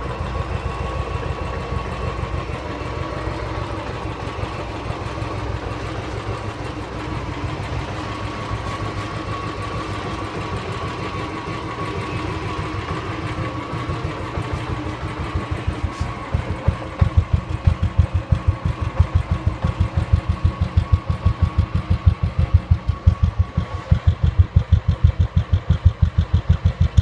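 Royal Enfield Classic 350's air-cooled single-cylinder engine idling through its stock exhaust, a steady beat of evenly spaced pulses. About two-thirds of the way through, the beat turns louder and more distinct, each exhaust pulse standing out on its own.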